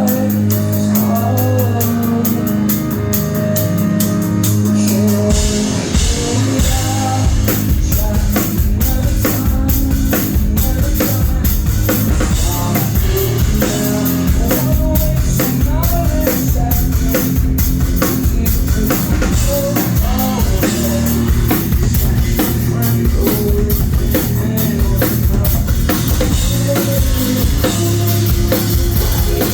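Live rock band playing loud, recorded on a phone: sustained guitar and bass chords at first, with the full drum kit coming in about five seconds in and driving a steady beat under the guitars.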